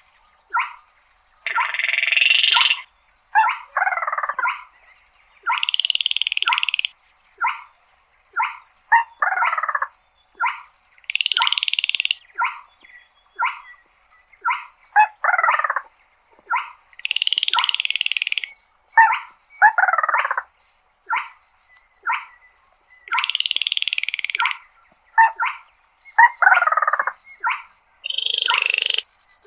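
Baillon's crake calling in a repeating phrase. A dry, frog-like rattle about a second long is followed by short clicks and a falling note, and the phrase comes round about every six seconds.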